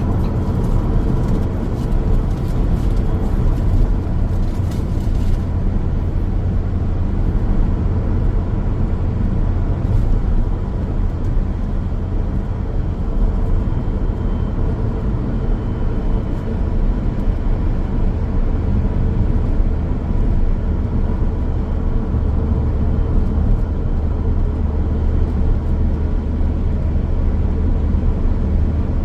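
Car driving along a road: a steady low rumble of tyre and engine noise, unbroken for the whole stretch.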